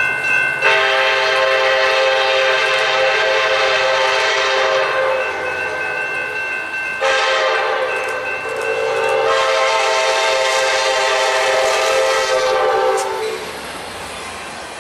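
A train's multi-note air horn sounding two long blasts, the first from under a second in until about five seconds, the second from about seven seconds until near the end. In the gap, and just before the first blast, a higher steady horn chord sounds. The lower chord slides down in pitch briefly partway through the second blast.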